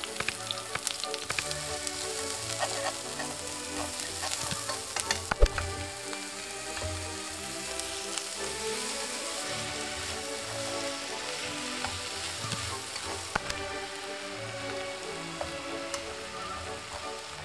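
Onion, garlic, chili and sliced beef sizzling in hot oil in a frying pan as they are stir-fried, a steady hiss with occasional sharp clicks, the loudest about five seconds in.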